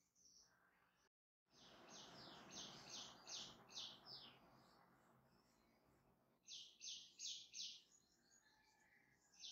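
A bird chirping in quick runs of short, high calls, about four a second, twice, over a faint hiss. The sound cuts out completely for a moment about a second in.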